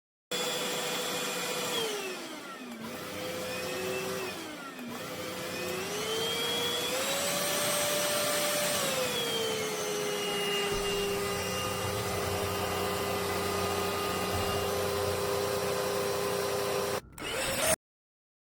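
Trucozie cordless stick vacuum's motor running with a steady whine. Its pitch dips sharply twice in the first few seconds, climbs higher around the middle, then settles slightly lower. It breaks off briefly near the end, then stops abruptly.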